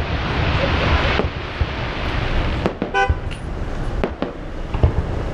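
Scattered fireworks pops over a steady wash of noise, with one short car horn toot about three seconds in.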